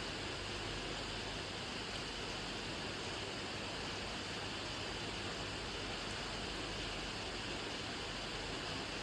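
Steady rain, an even hiss that holds at one level with no single drops standing out.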